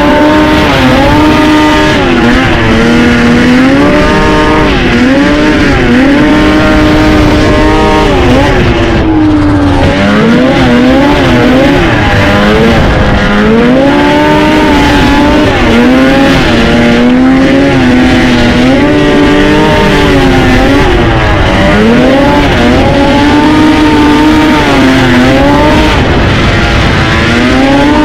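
Two-stroke snowmobile engine revving hard under load, its pitch climbing and dropping again and again as the throttle is worked, with a short let-off about a third of the way through.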